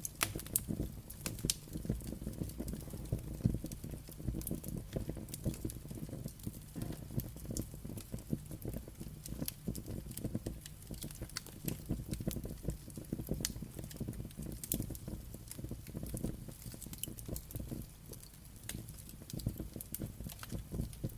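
Wood fire crackling: a dense, steady bed of small low crackles with frequent sharp, bright pops.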